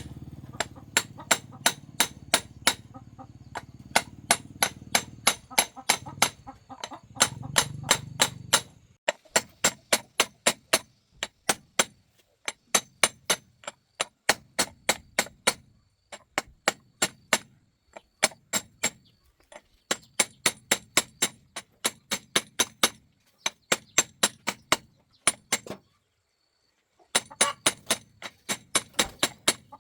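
Hammer tapping on metal in quick runs of sharp strikes, about two to three a second, with short pauses between the runs. A low rumble underneath stops about nine seconds in.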